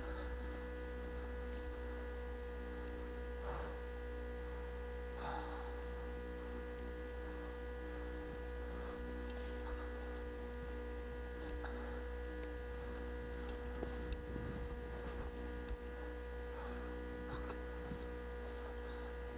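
Steady electrical hum holding several fixed tones, with a few faint scattered clicks and taps.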